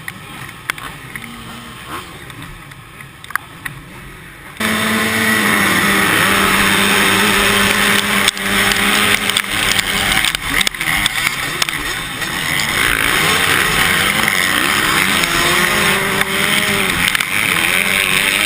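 Motocross bike engines revving hard and rising and falling in pitch as they race, starting abruptly about four and a half seconds in over a quieter background with a few clicks.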